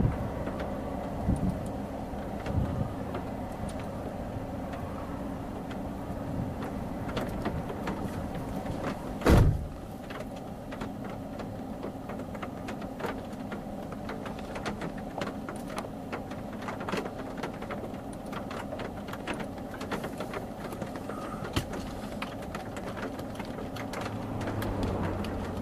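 Steady vehicle hum with a constant low drone. There is one loud thump about nine seconds in, and small scattered ticks run through the second half.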